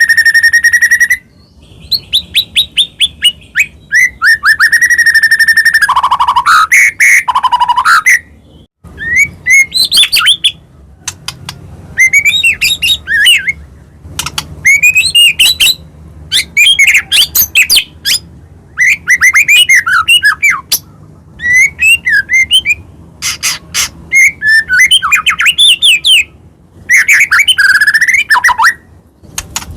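White-rumped shama (murai batu) singing loudly in full song: a long run of varied phrases, each a second or two long with short pauses between, mixing clear rising and falling whistles with fast clicking notes. It opens with one held whistle.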